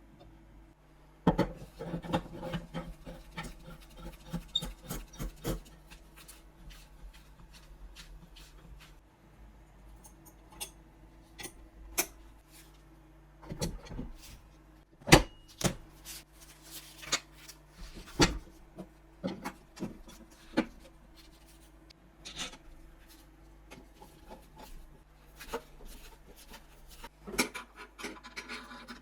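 Hand work on rifle parts: rubbing and scraping, densest in the first few seconds, then irregular sharp clicks and knocks of small parts being handled, over a faint steady low hum.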